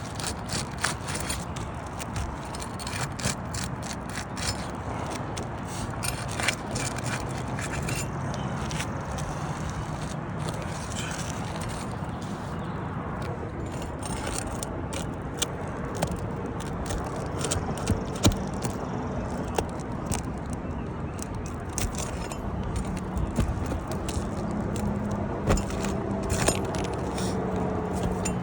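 Hand tools scraping and clicking against asphalt shingles and their nails, many short sharp clicks over a steady background noise, as layers of a damaged shingle are worked loose for a repair. A faint low hum comes in during the last few seconds.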